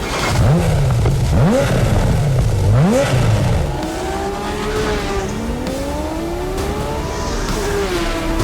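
Porsche Carrera GT's V10 engine revved hard several times in quick blips, each rising and falling in pitch, then pulling with a slower, longer rise in pitch.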